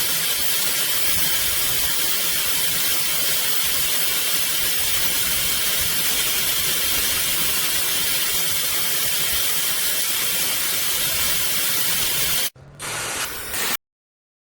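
A CNMSGM high-speed ionic hair dryer blowing, a steady loud rush of air with a hiss. It cuts off about twelve and a half seconds in, then gives about a second of quieter, lower airflow before stopping.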